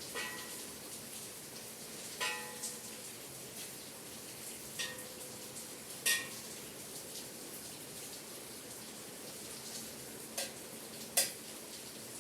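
Steady rain hiss, with small bells in a bell tower giving about seven short, irregular clinks as the rain strikes them. The two loudest come about halfway through and near the end.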